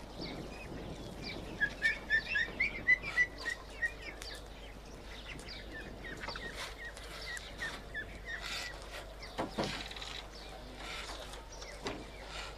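Bird chirps: a quick run of loud short chirps about one and a half to four seconds in, then scattered fainter chirps and a few soft knocks over a low background hiss.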